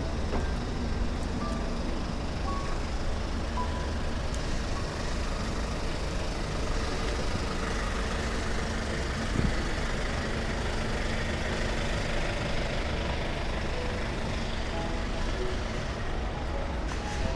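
Steady low rumble of background noise, with a few short, faint tones in the first few seconds.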